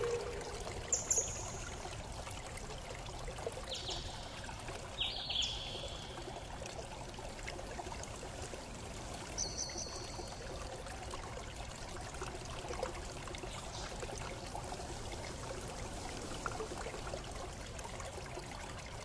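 Steady running, trickling water, with a few short high chirps in the first half.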